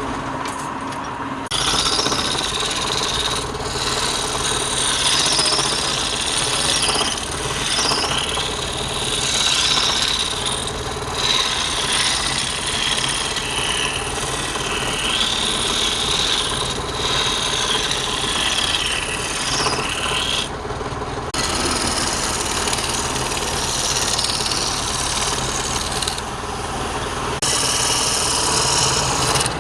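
Wood lathe running with a turning tool cutting the spinning wood: a steady motor hum under a scraping, hissing cut that wavers in pitch. The cutting stops twice briefly, leaving only the motor hum.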